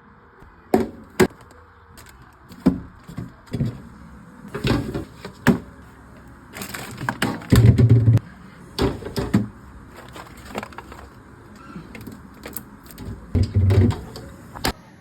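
Irregular sharp knocks, clicks and clatters of objects being handled and set down while a fridge is cleaned out, with two heavier thumps, about halfway through and near the end.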